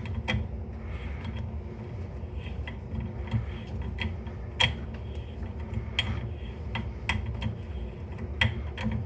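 Irregular metallic clicks and ticks as a four-way key is worked on a water supply valve to open it.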